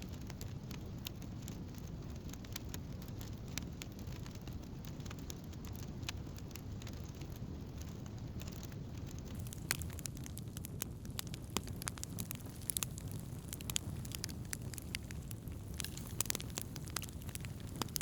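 Wood campfire burning, with frequent sharp crackles and pops over a steady low rumble; the pops grow more frequent and louder from about ten seconds in.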